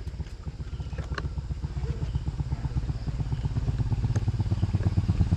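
Motorcycle engine approaching, with a fast low exhaust putter that grows steadily louder.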